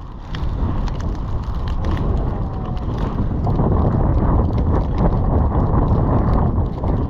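Steady, loud wind rumble on a GoPro action camera's microphone on a ski run, with scattered clicks and scrapes through it.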